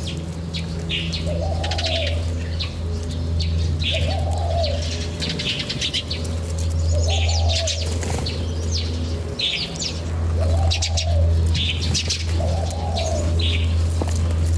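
Small birds chirping and tweeting rapidly, while a dove repeats a rising-and-falling coo about every two to three seconds, all over a steady low hum.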